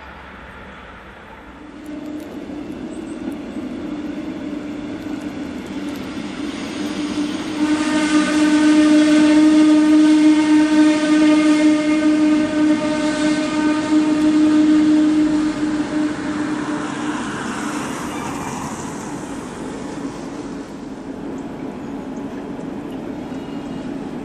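Red DB regional train with double-deck coaches running past, its rumble carrying a steady humming whine with several overtones. The whine grows louder, is strongest for about seven seconds in the middle, then fades as the train moves on.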